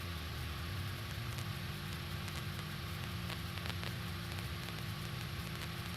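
Light aircraft's piston engine idling, a steady low hum under an even hiss.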